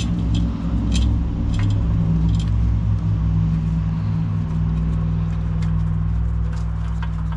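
A steady low mechanical hum, with a few light metallic clinks of wrenches on bolts in the first couple of seconds.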